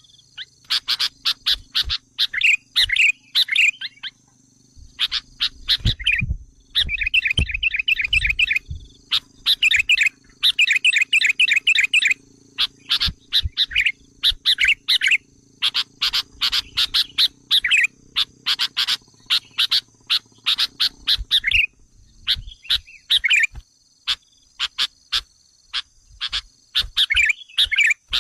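Sooty-headed bulbul lure calls: rapid runs of sharp chirps and bubbling, warbled chatter in quick bursts with short pauses between them.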